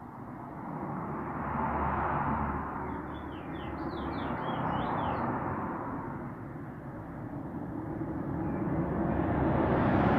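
A bird giving a quick run of about ten short chirps about three seconds in, over a steady rushing noise that swells and fades, like passing traffic.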